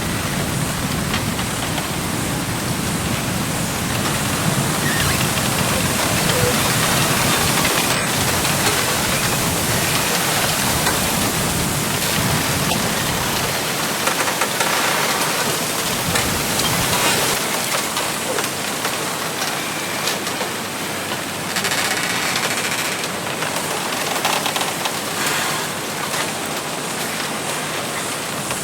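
Wind blowing through a bamboo grove, the leaves and stems rustling in a steady, even rush of noise that swells and eases a little.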